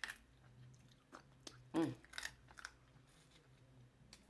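Close-miked mouth sounds of a person eating seafood: wet chewing and lip smacks as short clicks, the loudest about two seconds in.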